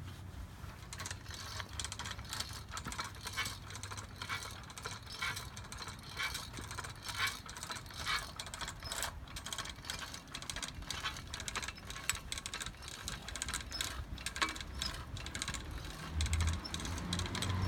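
1950 Propeloar human-powered outboard being worked: its chain and gears clicking and rattling irregularly as the drive is pushed back and forth. A low steady hum joins near the end.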